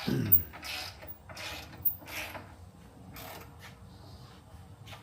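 Hand ratchet wrench clicking in short, uneven strokes as a bolt is worked loose on a motorcycle, with a couple of sharper metal clicks in the first two seconds.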